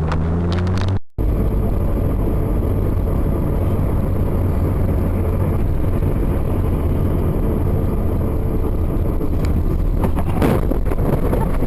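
Steady road and engine rumble of a moving car heard from inside the cabin by a dashcam, broken by a short dropout about a second in, with a few knocks near the end.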